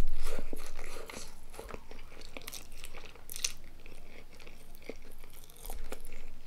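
A person chewing a mouthful of som tam and grilled chicken close to the microphone: irregular crunches and wet mouth clicks, loudest in the first second.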